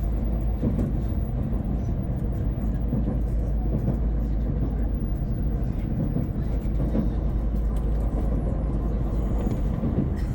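Shinkansen bullet train running at speed, heard inside the passenger cabin as a steady low rumble of wheels on rail and air noise.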